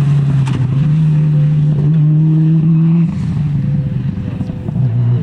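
Rally car engine held at high revs under power with a steady note, then lifting off about three seconds in, with a short blip of throttle near the end.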